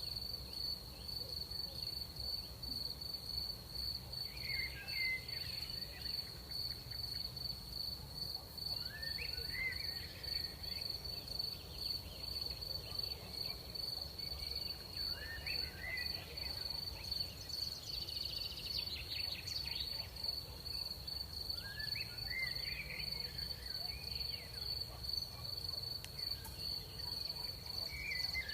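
Night cricket chorus: a steady, high-pitched trill, with short rising chirps about every five to six seconds over a faint low rumble.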